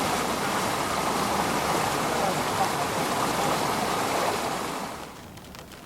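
Floodwater rushing steadily, an even, loud hiss that drops away about five seconds in.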